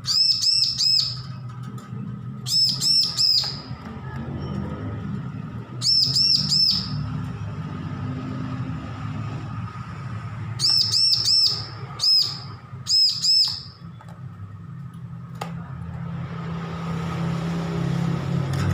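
Bar-winged prinia (ciblek) calling in six short bursts, each of three or four quick, ringing high notes, over a steady low hum.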